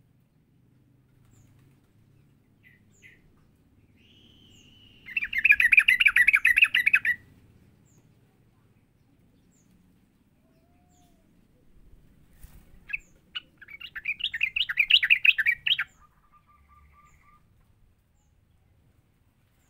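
Yellow-vented bulbul (trucukan) song: two loud bouts of rapid, quickly repeated notes, the first about five seconds in and a longer one from about thirteen to sixteen seconds, with a few short faint notes between them.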